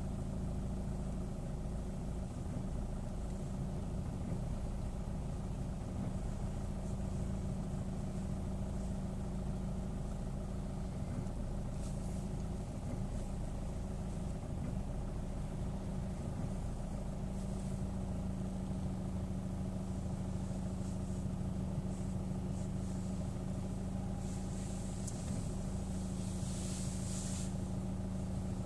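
Chevrolet Orlando's engine idling steadily, with the air conditioning switched off.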